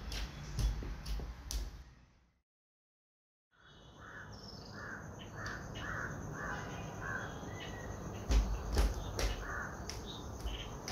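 A bird calling outdoors, a quick run of about seven short calls and another one near the end. Light knocks and clicks of handling come near the start and again about two-thirds through, and the sound cuts out completely for about a second early on.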